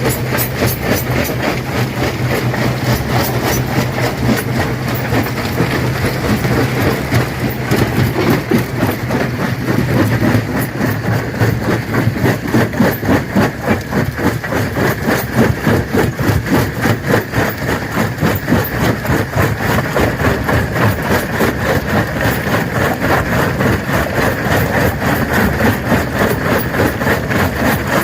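Stone crusher crushing rock: a continuous loud clatter of rapid, closely spaced knocks as stones are broken, over a steady low machine hum that fades about ten seconds in.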